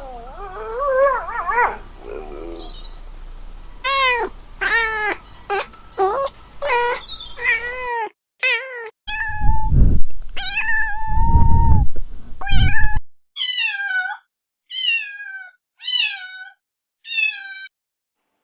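Kittens meowing in short, high, repeated calls across several spliced clips. Near the middle come two longer meows over a low rumbling noise, then four short meows about a second apart.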